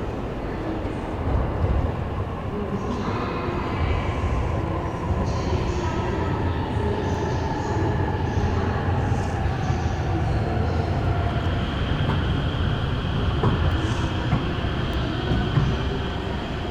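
Train pulling into a station platform: a steady low rumble with a whine that slowly falls in pitch as it slows, and a steady high-pitched tone joining about two-thirds of the way through.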